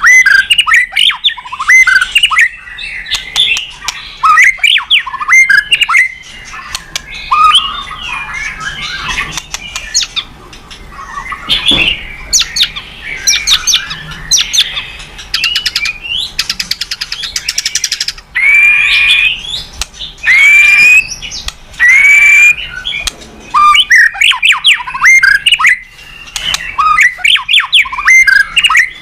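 White-rumped shama singing a continuous, varied song of loud whistles, chatters and trills. About halfway through comes a fast run of ticking notes, followed by several loud slurred whistles.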